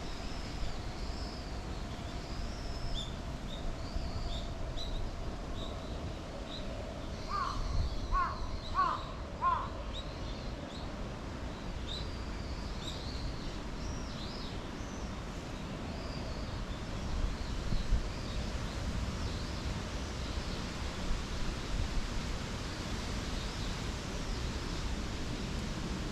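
A crow gives a short run of about four caws roughly eight seconds in, over scattered high, thin chirps of small songbirds and a low wind rumble.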